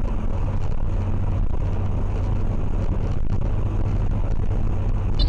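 Steady vehicle engine and road noise with a low, even hum.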